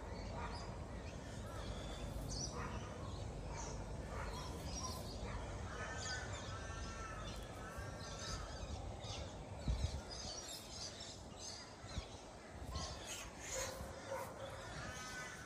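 Birds calling: a harsh bird caws three times in a row about halfway through and again near the end, with smaller birds chirping throughout over a low wind rumble. One dull thump about two-thirds of the way through.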